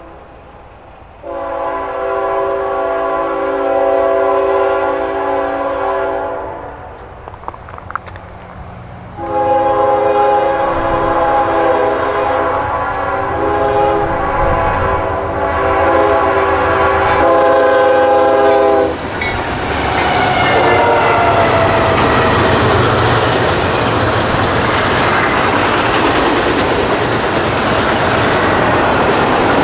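Freight locomotive air horn sounding at a grade crossing: a long blast of about five seconds, a short pause, then a longer blast of about ten seconds. After that the train rushes past close by, with wheels clattering over the rail joints as the double-stack container cars go by.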